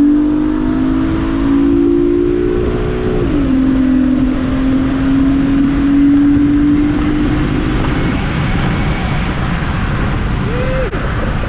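Acura TL SH-AWD's 3.7-litre J37 V6, running through precat-delete pipes, accelerating hard with its pitch climbing. An upshift drops the revs sharply about three seconds in, then the revs climb again until the throttle eases off near the two-thirds mark and road noise takes over.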